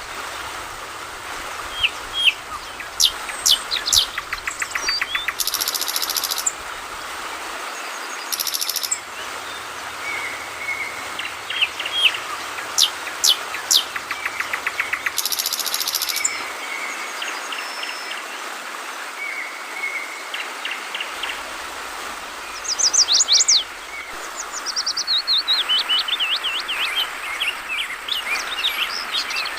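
Yellow-vented bulbul (trucukan) chirping and calling in quick runs of notes over the steady murmur of flowing water, with a few short high buzzing bursts now and then.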